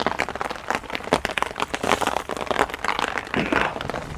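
Heavy rain drumming on a small tarp overhead: a dense, irregular patter of drops.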